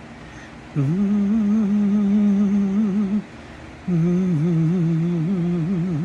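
A man humming a wordless tune unaccompanied: two long held phrases with a slight waver in the pitch, the first starting about a second in and the second just before the four-second mark.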